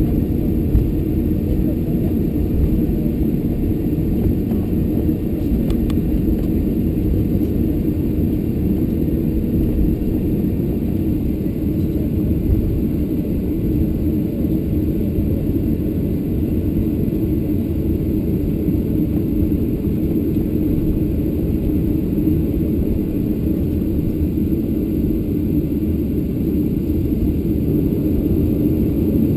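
Steady low rumble inside the cabin of a Boeing 737-700 taxiing after landing, its CFM56 engines running near idle.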